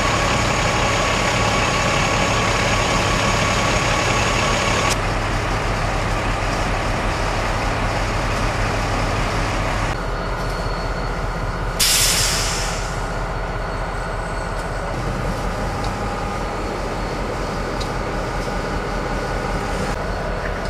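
Union Pacific train running, a steady mechanical rumble with a steady whine over it, and a loud burst of hissing about twelve seconds in that fades over about a second.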